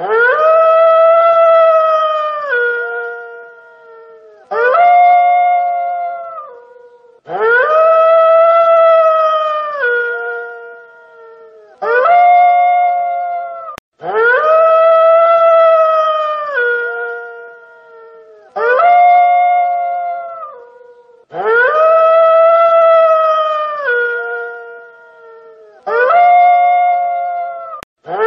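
Wolf howling: long, level howls that each drop in pitch near the end, alternating with shorter howls, the same sequence repeating about every seven seconds.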